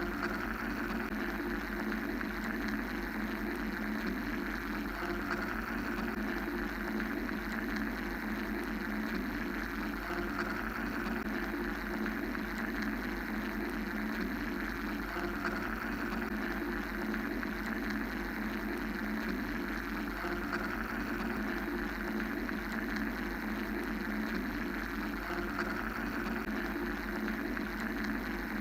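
Steady mechanical hum and hiss of a white-noise ambient track, a continuous machine-like drone whose higher hiss swells and fades slowly every few seconds.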